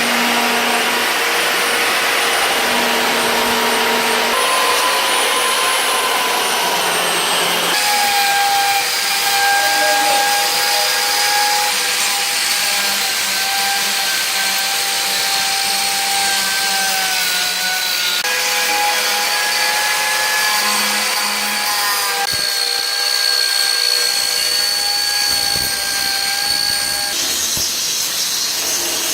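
Electric power tools, such as a grinder-mounted cutter and a belt sander, shaping yew wood: a steady motor whine over a cutting and sanding hiss. The pitch jumps abruptly several times as one short shot cuts to the next.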